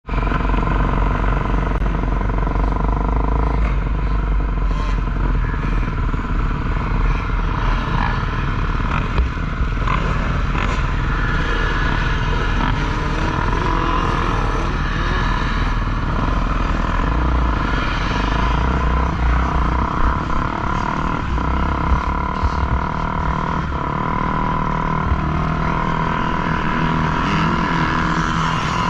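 Motocross dirt bike engines running continuously over a heavy low rumble.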